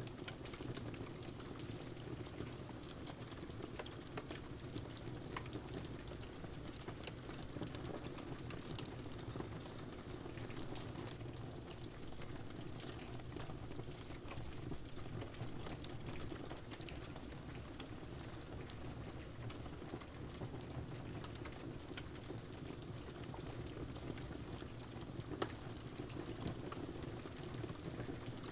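Steady rain mixed with the scattered small pops and crackles of a fireplace fire.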